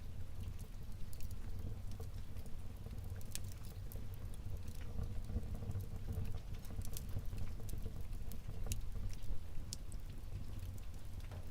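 Wood fire burning in a fireplace: a steady low rush with scattered sharp crackles and pops, several a second.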